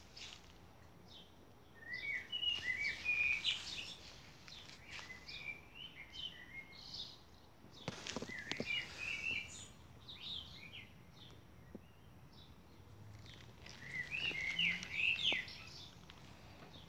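A songbird singing three short phrases of quick, high chirping notes, about two, eight and fourteen seconds in, over faint outdoor background noise. A brief knock comes about eight seconds in.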